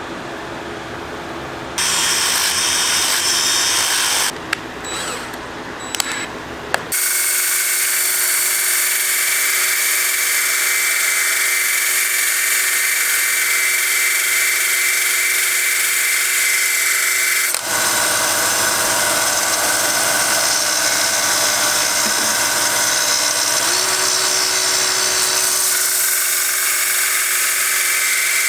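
An electric power tool running steadily. It starts about two seconds in, stops briefly around four to seven seconds in, then runs on, with a sudden change in tone about two-thirds of the way through.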